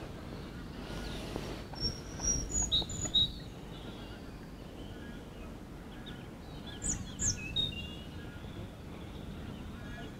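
Birds chirping: a few short high calls about two seconds in and another cluster of quick whistles about seven seconds in, over a steady low background noise.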